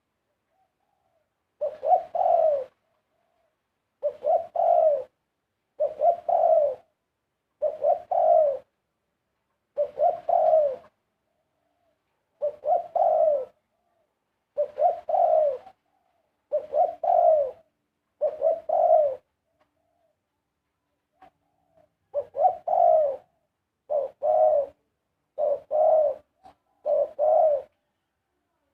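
Spotted dove cooing: the same short phrase of a few quick, low coos, about a second long, repeated roughly every two seconds, with one longer pause about two-thirds of the way through.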